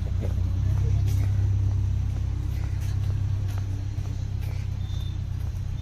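Low steady rumble of a motor vehicle's engine on the street, slowly fading as it moves off.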